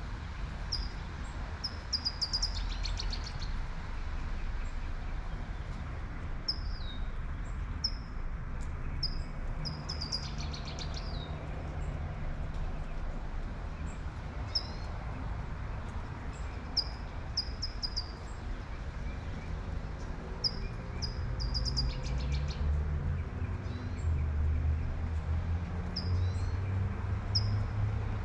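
A songbird singing a short phrase of a few high notes ending in a quick trill, repeated every four seconds or so, over a steady hiss of light rain. A low rumble of a passing car builds near the end.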